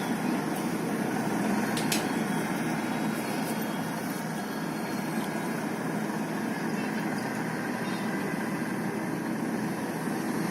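An engine running steadily at idle, a constant low mechanical hum.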